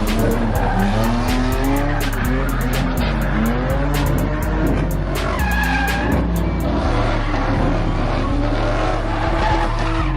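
A car engine revving up and down again and again with tyre squeal, as in a burnout, mixed with hip-hop music that has a deep pulsing bass and fast hi-hats. The hi-hats drop out about two-thirds of the way through.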